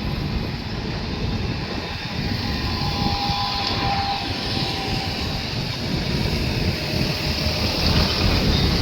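A moving train running steadily, with a constant low rumble and rail noise. A faint thin high tone comes in briefly in the middle.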